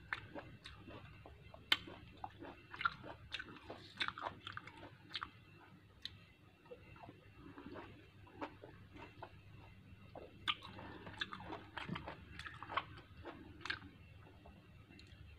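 A person chewing and biting orange segments: faint, irregular short clicks and mouth sounds of eating.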